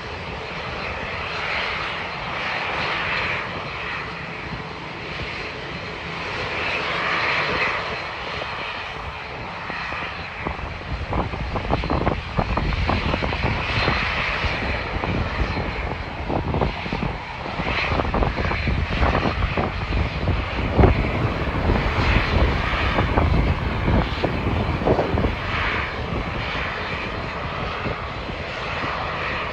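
Jet airliner engines, a steady loud noise that grows louder about ten seconds in, with a heavy low rumble from then on.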